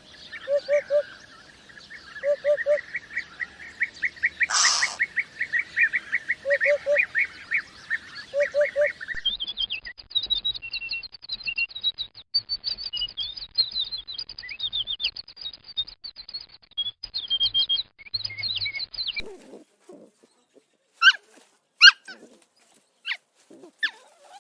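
Birds chirping in fast repeated runs of notes, switching about nine seconds in to higher, quicker chirps, then only a few short scattered calls near the end.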